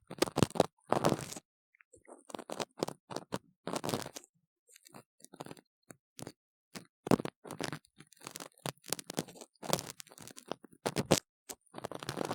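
Ear cleaning on a silicone ear model: a tool scraping and rubbing inside the model ear, heard close up as irregular strokes, mostly short, some lasting about a second, separated by brief gaps.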